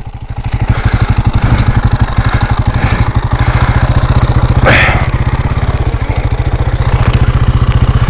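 Dirt bike engine running at idle, a steady rapid beat of firing pulses. A short, sharp noise breaks in about five seconds in.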